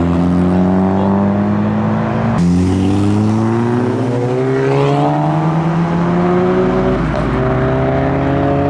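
Car engines pulling away under acceleration, their pitch rising in long steady sweeps. The sound changes abruptly about two and a half seconds in, as a new rising engine note takes over.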